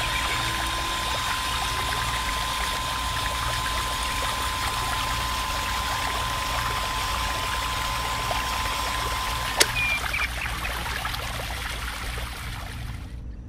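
A stream of water from a mini electric pump's hose pouring and splashing steadily into a small plastic pool. A thin steady tone runs along with it and stops at a sharp click about ten seconds in.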